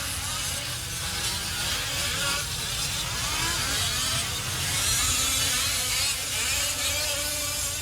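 Several 1/5-scale RC off-road trucks' small two-stroke gasoline engines buzzing as they race, their pitch rising and falling as the drivers work the throttle.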